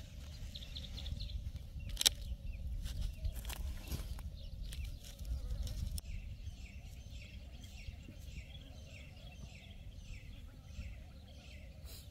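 A small bird chirps repeatedly in short falling notes, two or three a second, starting about halfway through, over a low steady rumble. There is one sharp knock about two seconds in.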